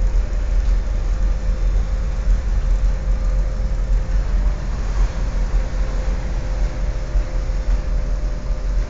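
Steady low rumble of a fishing vessel's machinery heard on board, with a faint steady hum running over it.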